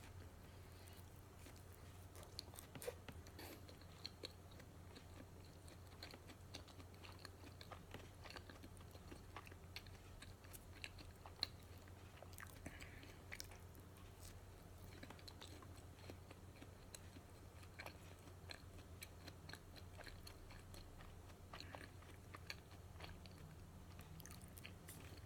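Close-miked chewing of matcha donuts: soft mouth sounds with many small crisp clicks, over a steady low hum.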